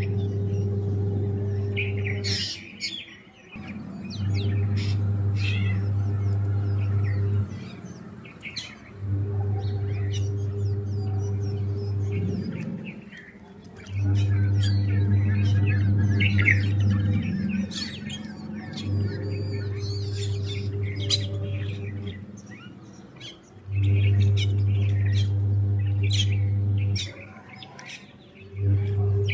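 Many small birds chirping and calling in short, overlapping notes. A louder, steady low hum switches on and off, running about three seconds at a time with short gaps between.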